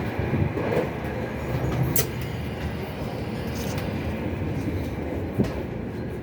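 Steady rumble of a moving passenger train heard from inside the carriage, with a couple of short clicks or knocks, one about two seconds in and one near the end.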